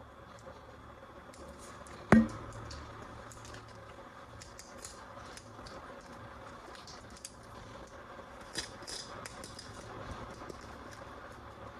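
Toys and their packaging being handled: scattered light clicks and soft rustles, with one sharp, loud click about two seconds in and a smaller one near the end.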